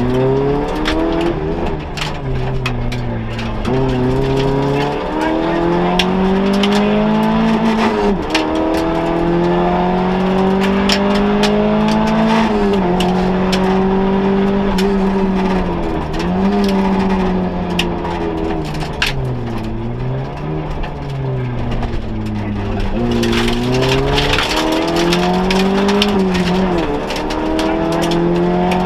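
Vauxhall Nova rally car engine, heard from inside the cabin, revving hard. The pitch climbs and drops back sharply about eight times as the driver changes gear and lifts, with sharp ticks and knocks over the top.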